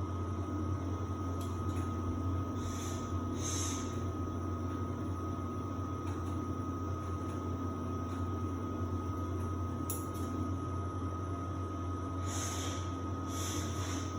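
Samsung WD70T4047CE washer-dryer running in its drying phase: a steady low motor hum with a thin, constant whine above it and a few soft hisses.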